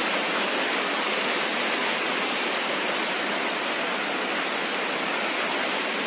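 Heavy rain and rushing floodwater making a steady, even hiss that does not let up.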